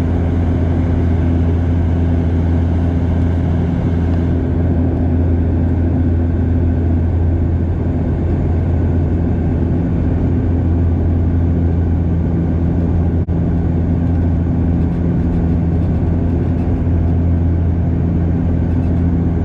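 Steady drone of a Bombardier DHC8-Q400's turboprop engines and propellers heard inside the passenger cabin: a loud low hum with a few steady low tones.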